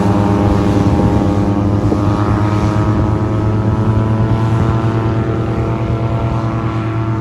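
A loud, steady engine drone passing close enough to drown out conversation, its pitch dipping slightly near the end.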